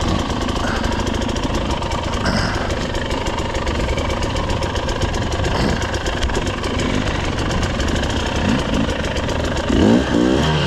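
Off-road vehicle engine running steadily at low revs, with the revs rising and falling about ten seconds in.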